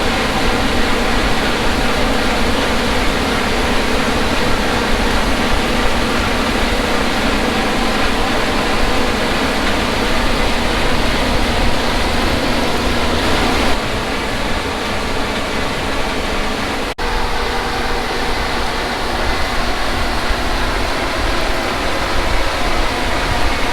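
Combine harvester running steadily while cutting wheat: a dense machinery noise with an engine hum under it. The sound changes abruptly about 14 seconds in and drops out for an instant about 17 seconds in.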